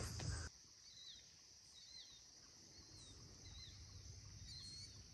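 Faint rural morning ambience: a bird repeating a short warbled chirp about once a second over a steady high insect drone.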